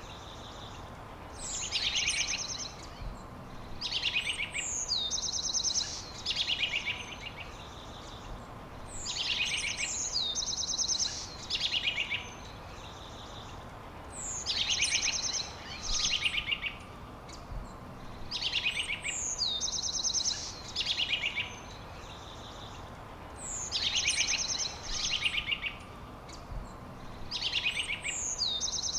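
A songbird singing the same short phrase of quick, high chirps and trills over and over, a phrase every few seconds, over a steady background hiss.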